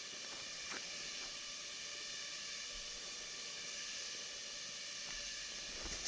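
A steady high hiss with faint steady whining tones in it, and a faint click about a second in.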